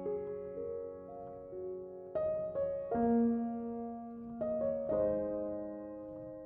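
Slow, gentle piano music: soft sustained chords that ring and fade, with new chords struck every second or so.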